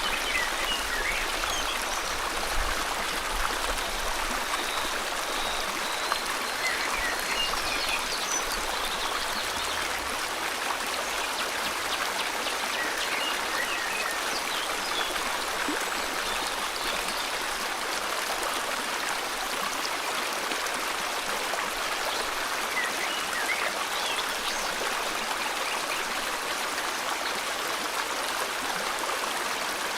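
River water flowing steadily in a forest, with birds chirping in short calls scattered throughout.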